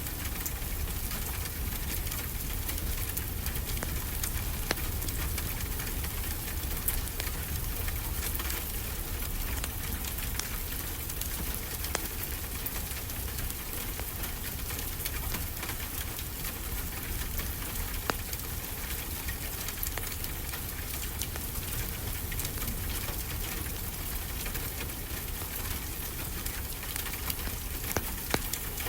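Wood fire crackling with many small sharp pops, over a steady low rumble of ocean surf.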